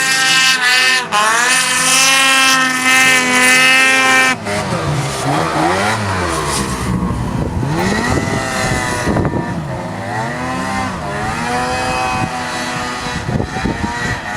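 Snowmobile engine revving hard, its pitch rising and falling as the throttle is worked, with an abrupt change about four seconds in.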